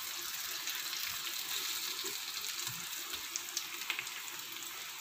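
Pumpkin pieces frying in oil in a wok, a steady sizzle with a few light ticks near the middle; the pieces have already softened and are nearly cooked.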